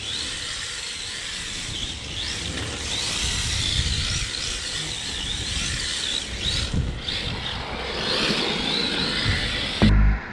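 HSP Flying Fish 1/10 RC drift car being driven. Its brushed electric motor whines, rising and falling in pitch over and over with the throttle, over a steady hiss. Music cuts in right at the end.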